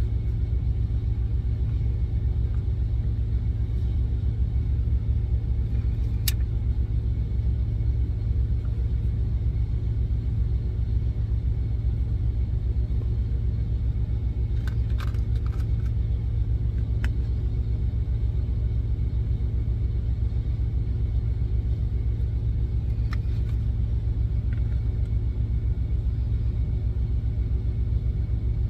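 Semi-truck engine idling with a steady low rumble, heard from inside the cab. A few sharp clicks stand out over it.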